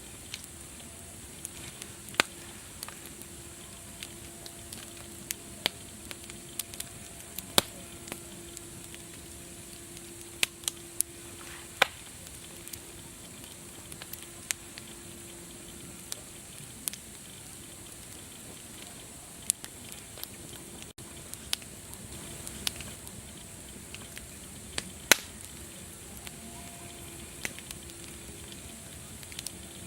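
Wood fire crackling, with sharp irregular pops over a steady hiss. A faint low tone comes and goes.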